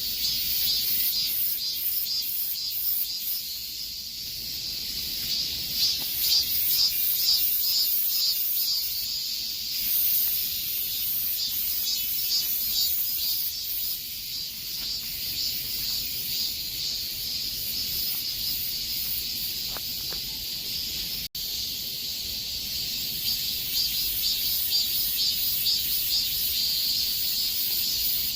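Cicadas singing in a dense chorus: a loud, high buzzing with a fast, even pulse that swells and eases a little. The sound breaks off for a split second about three-quarters of the way through.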